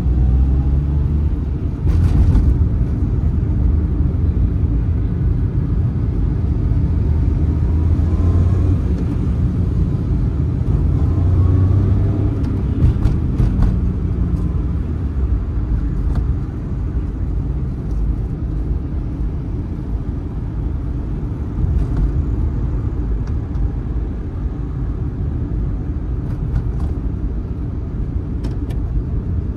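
Suzuki Mehran's small 800 cc three-cylinder engine and road noise heard from inside the cabin while driving: a low rumble whose engine note climbs a few times in the first half as the car pulls away and accelerates, then settles into a steadier cruise.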